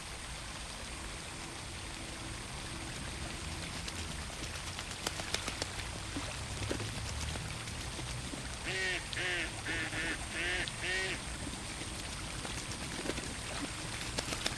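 A duck quacking, a quick run of about six quacks a little past halfway, over a steady patter of water.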